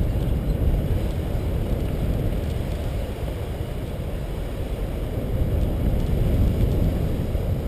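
Steady low rumble of wind buffeting the microphone of a moving bicycle, with no distinct other sound.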